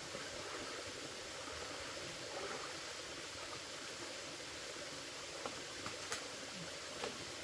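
Water flowing steadily, with a few light clicks or taps near the end.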